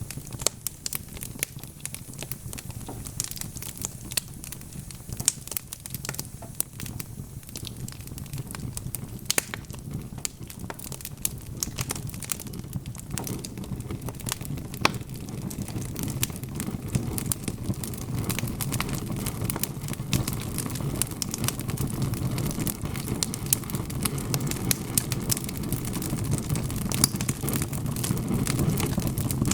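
Wood fire crackling: irregular sharp pops and snaps over a low rumble of burning, which grows louder in the second half.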